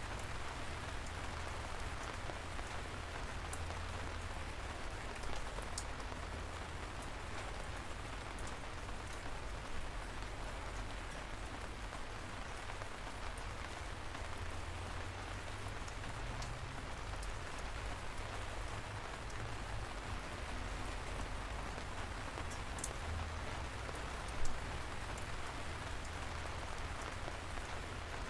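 Steady light rain falling, an even patter with a low rumble underneath and now and then a sharper drip.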